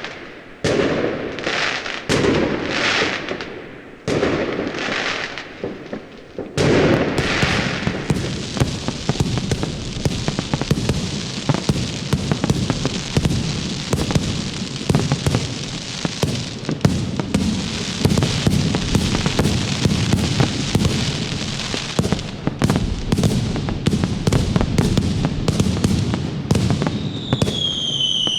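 Fireworks going off: a few separate bangs, each trailing a hissing crackle. About six and a half seconds in they give way to a dense, continuous barrage of crackling pops. Near the end a falling whistle rises above the pops.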